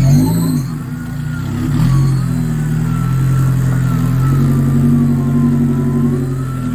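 4WD winch pulling a vehicle up an off-road obstacle, its whine wavering slowly up and down in pitch as the load changes, over the steady running of the vehicle's engine.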